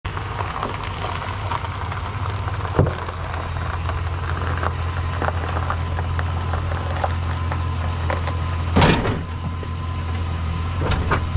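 Truck engine idling steadily, with scattered clicks, a sharp knock about three seconds in and a louder clunk near the end.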